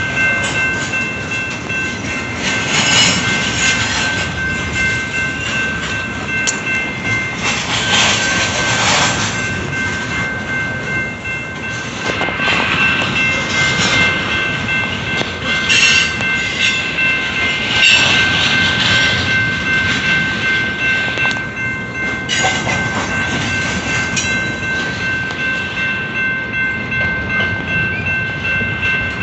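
Double-stack intermodal container train rolling past at close range, its wheels clattering and rattling over the rails. A steady high whine runs over it.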